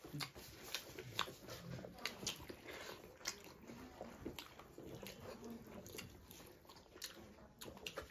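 Close-miked eating sounds of two people chewing chicken and rice, with frequent sharp wet mouth clicks and lip smacks.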